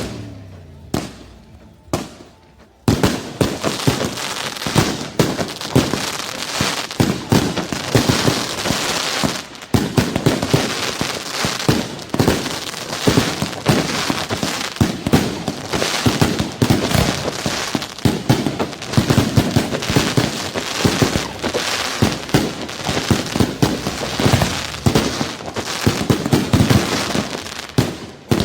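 A dense, continuous crackle of many sharp pops and cracks, starting suddenly about three seconds in after a quieter start.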